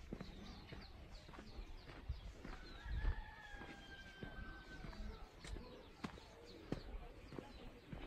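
Birds chirping in short, falling notes, with one long, even-pitched call lasting a couple of seconds from about three seconds in. A low thump sounds just as that call begins.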